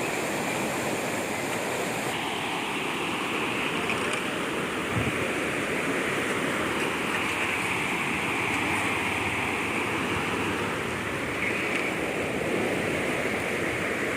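Fast-flowing floodwater rushing steadily in a current.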